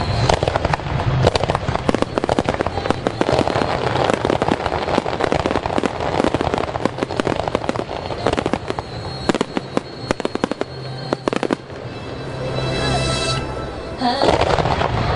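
Fireworks display: rapid, dense bangs and crackling from shells and low-level fountains bursting, with music playing underneath. The bangs thin out a little past the middle into a rising hiss, then a loud barrage returns near the end.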